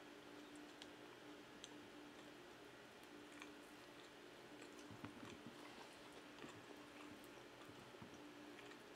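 Faint close-miked chewing and mouth sounds from eating pizza, with scattered small clicks and a soft cluster of squishy sounds about five seconds in, over a faint steady hum.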